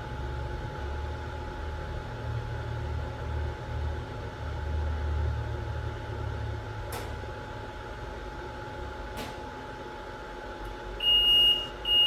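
ZM-R730A BGA rework station running at the end of its reflow profile: a steady low machine hum with a faint steady tone. The hum eases off about two-thirds through, with two clicks. Near the end, two loud high beeps signal that the profile has ended.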